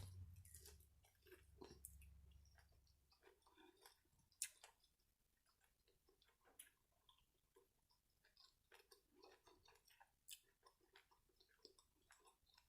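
Faint close-up chewing of fried seafood: scattered soft mouth clicks and small crunches, a few of them sharper.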